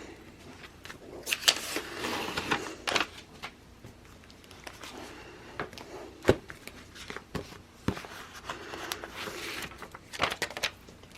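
Sticker sheets and planner pages being handled: scattered soft paper rustles with small taps and clicks.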